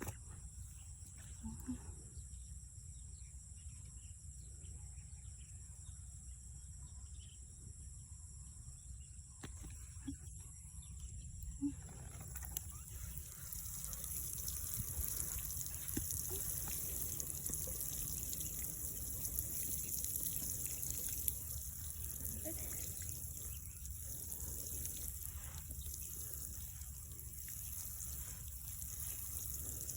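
Water running or trickling in a garden, starting about twelve seconds in and continuing steadily, over a constant high insect drone heard from the start.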